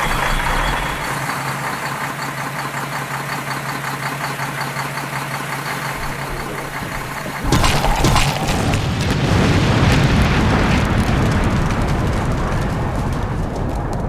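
Vehicle engine running steadily. About halfway through, a sudden loud burst, after which the engine sound is louder and rougher.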